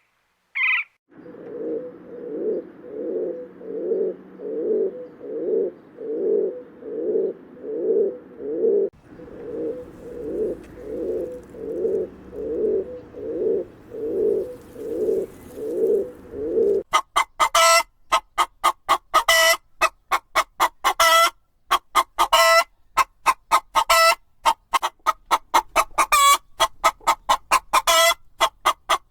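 Domestic fowl calling: a low call repeated about twice a second for the first half, then, a little past the middle, louder, sharper clucking calls in quick runs.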